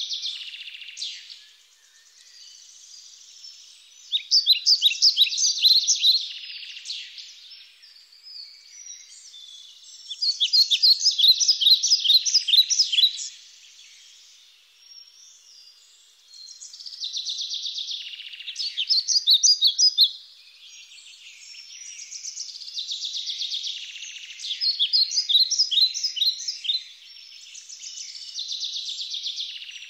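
Birds singing: phrases of rapid, high trilled notes about three seconds long, coming back every six or seven seconds, with fainter chirping between them.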